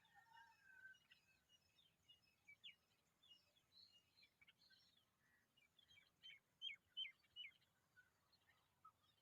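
Faint, scattered high bird chirps, with a quick run of four short, sharp chirps about six to seven and a half seconds in, the loudest part.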